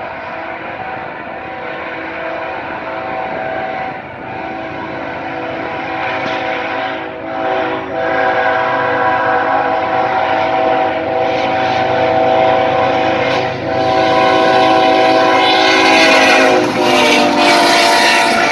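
Diesel locomotive horn sounding a series of long blasts, broken by short gaps, as a train approaches and grows louder. Near the end the locomotive's engine and wheel noise come up strongly as it draws close.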